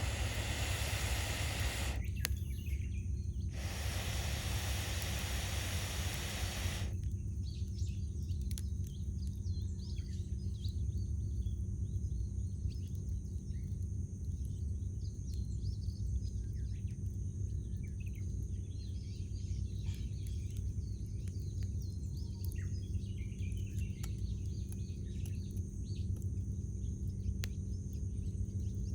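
A wood campfire crackling with small sharp pops while small birds chirp and call around it, over a steady low rumble. A loud rushing noise fills the first several seconds, breaks off briefly, returns and then dies away about seven seconds in.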